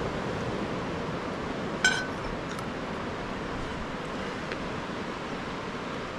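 A single bright, ringing clink about two seconds in, like glass or a utensil striking dishware, over a steady rushing background of beach surf.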